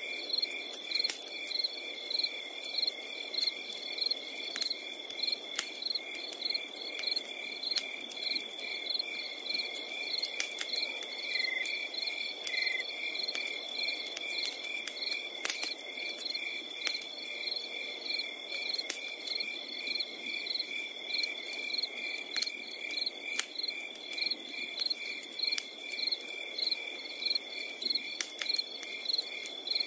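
Crickets chirping at night: a continuous high trill with evenly repeated chirps, about three a second, and occasional sharp clicks.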